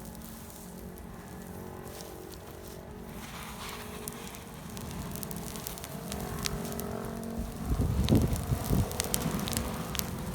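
Wood fire crackling, with sharp scattered pops that come thicker in the second half. A louder low rumble about eight seconds in.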